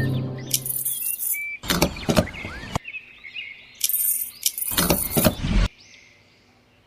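Birds chirping, broken by loud bursts of noise about a second long, a few times.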